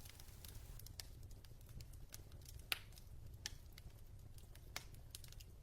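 Faint fire crackling: sparse, irregular pops and clicks over a low steady hum.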